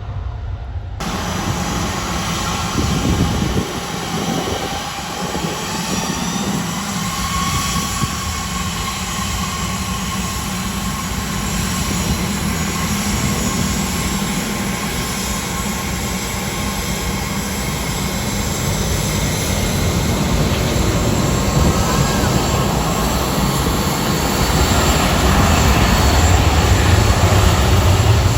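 Aircraft engines running loud and steady, growing louder near the end as the aircraft comes closer.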